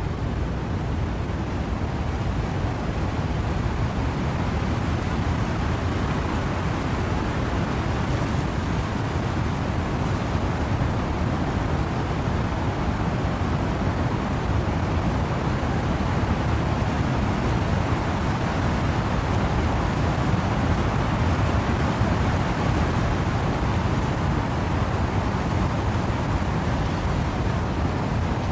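Wind and rain through trees: a steady, unbroken rush, deepest in the low end, with no single drops or gusts standing out.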